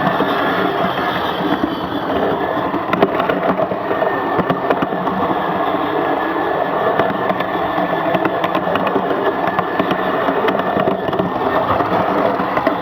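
16mm-scale live-steam garden railway locomotive running on its track: a steady hiss with many scattered sharp clicks.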